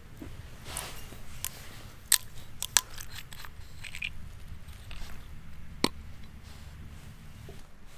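Someone biting and chewing crunchy food close to the microphone: a low chewing rumble with scattered sharp crunches, three of them louder than the rest.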